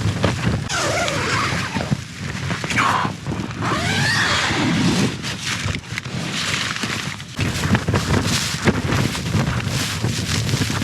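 Strong wind buffeting a tent, its fabric flapping and rustling in uneven gusts.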